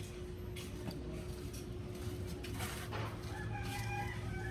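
A rooster crowing, one long held call starting about three and a half seconds in, over a steady low hum.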